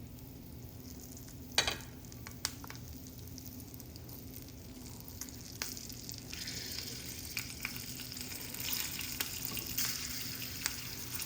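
Stuffed green chili peppers frying in hot oil in a pan: a quiet sizzle that grows stronger about halfway through, with a few light clicks, one sharper knock early on.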